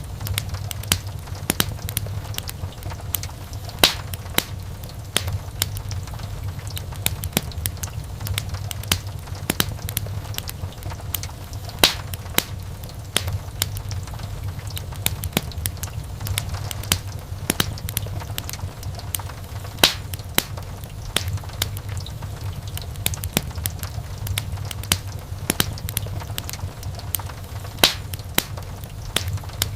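Wood fire in a fireplace crackling, with a low steady rumble of the flames under many small snaps and pops. A few louder pops stand out about every eight seconds.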